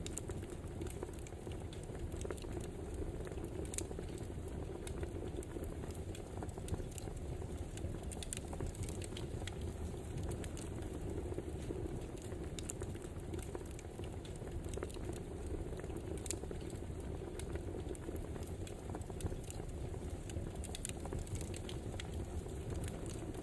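Crackling wood fire: a steady low rush with many irregular, sharp pops and snaps.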